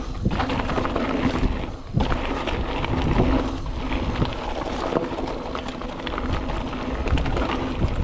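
Mountain bike rolling fast over a dirt singletrack trail: tyre noise on the ground with many small clicks, knocks and rattles as the bike goes over bumps and roots.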